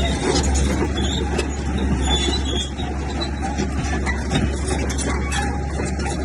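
Heavy diesel earthmoving machinery running steadily, a deep continuous engine drone with scattered metallic clatter over it.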